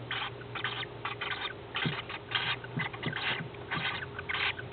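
Young peach-faced lovebirds chirping: a quick series of short chirps, about two to three a second.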